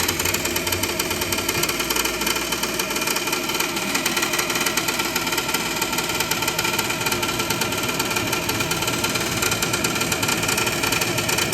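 Gas furnace draft inducer motor running with a steady, fast clatter, sounding like it's about to come right off: the inducer is failing and needs replacing.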